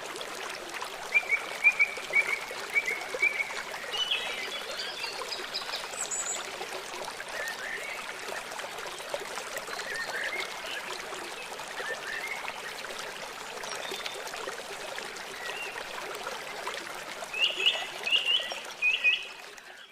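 Small songbirds chirping in short runs of quick notes over a steady hiss of running water. The loudest cluster of chirps comes near the end, and the sound then fades out.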